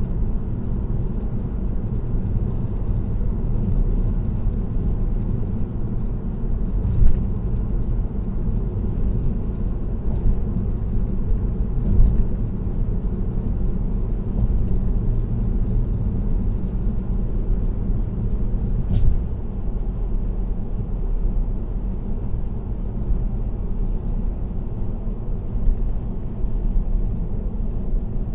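Car road noise on an expressway: a steady low rumble of tyres and engine with a faint high whine, broken by a few short knocks or rattles, the sharpest about two-thirds of the way through.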